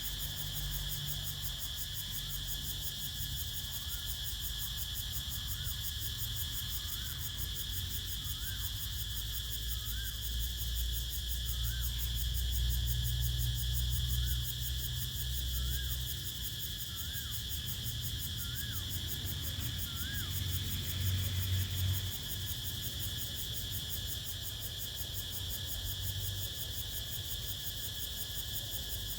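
Evening chorus of crickets, a steady shrill trill, over a shifting low rumble of wind. For much of the middle a faint short call repeats about once a second.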